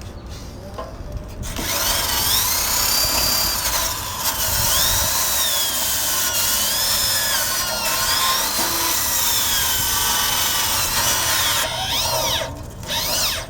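Electric drill spinning a wire brush against the steel frame, scouring off rust and old paint. It starts about a second and a half in, and its whine wavers up and down as it bears on the metal. It stops, then runs again briefly just before the end.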